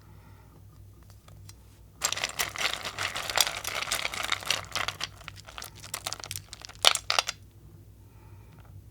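Candy wrapper being crinkled and torn open, starting about two seconds in and stopping about seven seconds in, with a few sharper crackles just before it stops.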